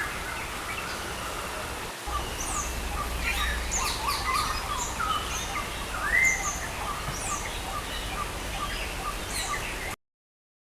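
Several birds chirping and calling, with short sweeping notes, over a steady hiss of rain and a low rumble that comes in about two seconds in. The sound cuts off abruptly near the end.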